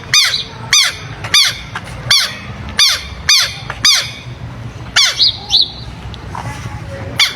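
Southern lapwings giving loud, harsh alarm calls over and over, roughly one every two-thirds of a second, with a lull in the second half before the calls start again: a pair mobbing a person who comes near.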